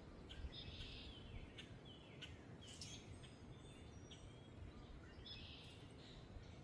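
Faint outdoor birdsong: several birds chirping, with short chirps, two buzzy calls and a few falling whistles, over a steady low rumble of wind.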